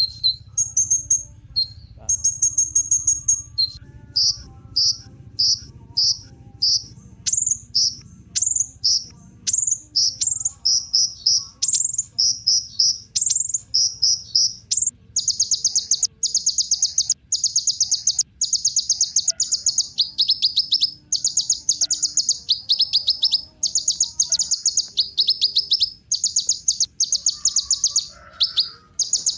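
A kolibri ninja sunbird singing very high-pitched song: quick separate chirps at first, then from about halfway on dense, buzzy trilled phrases repeated about once a second.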